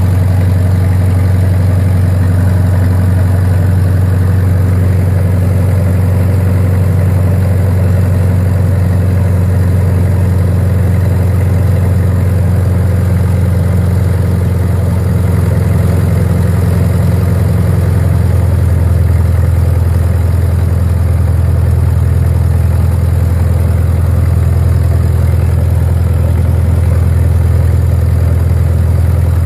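Caterpillar D311 diesel generator running steadily at constant speed, a loud deep drone. A little past halfway its low hum shifts slightly and sounds fuller.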